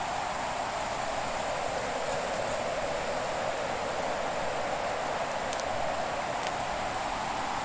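Wood fire burning: a steady rushing hiss that swells and eases slowly, with a few faint crackles.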